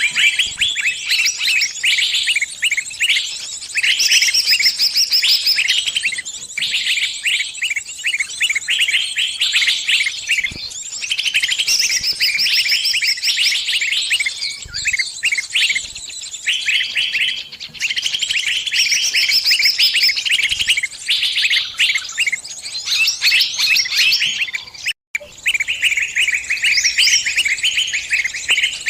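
Small bird's distress calls: dense, rapid chirping and trills with hardly a pause, the cry of a trapped bird calling to its flock for help. The calls break off for an instant about 25 seconds in.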